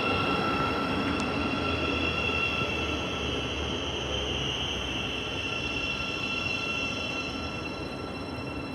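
Thameslink Class 700 electric multiple unit at the platform, its electrical equipment whining in several steady high tones over a low rumble that eases slightly.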